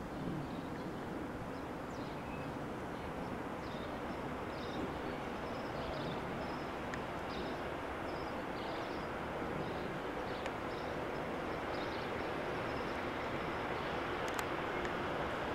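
Steady rumble of an approaching freight train hauled by an FS E.655 'Caimano' electric locomotive, slowly growing louder.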